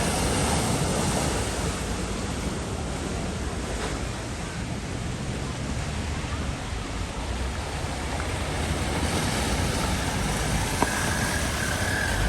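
Steady rush and splash of floodwater.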